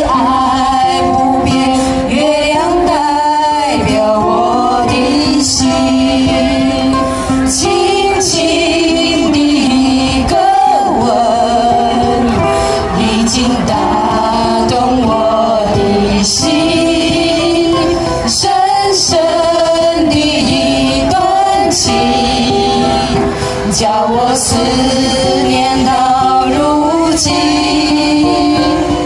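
A song sung by female and male voices to ukulele accompaniment, played through a PA system.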